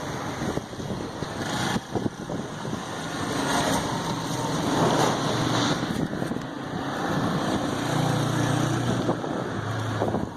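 Strong windstorm wind rushing and gusting over the microphone, rising and falling in strength, with a low steady hum for a second or so near the end.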